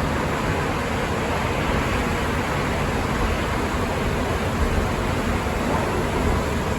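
Steady running noise inside a Sapporo Namboku Line 5000-series subway car, the rubber-tyred train travelling at an even speed between stations.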